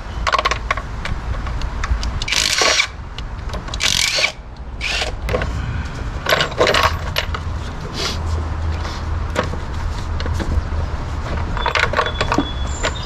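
Metal hand tools and small metal parts clinking, rattling and scraping during engine disassembly, with several louder clattering bursts among many small clicks.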